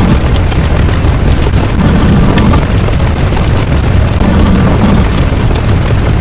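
Loud, continuous explosion-like rumble, heaviest in the bass and swelling slightly about every two and a half seconds.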